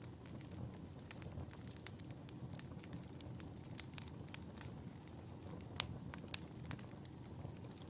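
Wood fire burning in a fireplace: a steady low rumble of flames with frequent irregular crackles and pops, one sharper pop a little before six seconds in.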